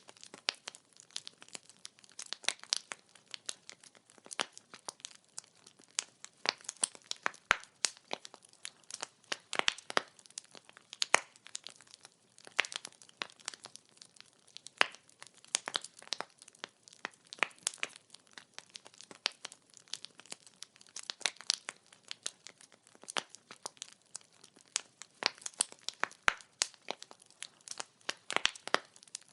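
Wood fire burning, the firewood crackling with many quick, irregular snaps and pops.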